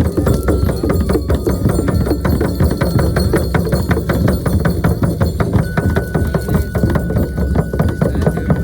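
Rapid, steady beating on a shaman's frame drum, about six beats a second.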